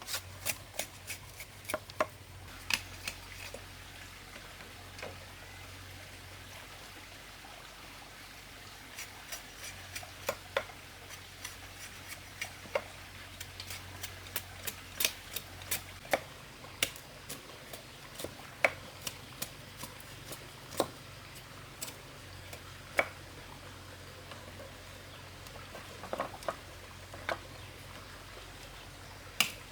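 Irregular sharp clicks and light knocks of hand work, at times several in quick succession and at times a second or more apart, over a faint steady low hum.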